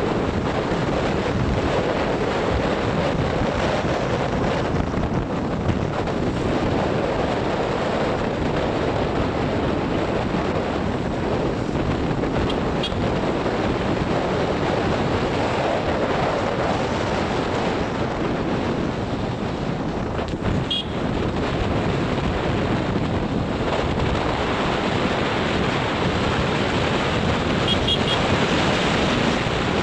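Wind buffeting the microphone: a steady, loud rush of noise that covers everything else.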